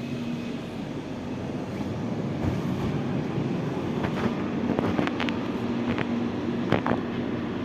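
Interior of a moving 81-740.1 metro train: the car runs with a steady rumble and a faint hum, and several sharp clicks come in the second half.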